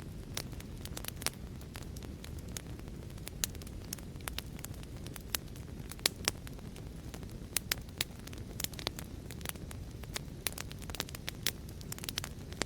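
Wood fire crackling: a steady low rumble of flames with sharp, irregular pops and snaps several times a second.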